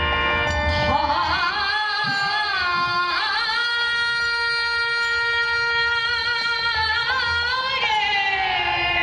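Bengali devotional kirtan singing: a single voice slides up about a second in and holds long, wavering notes over a steady instrumental drone, with light regular ticks of percussion underneath.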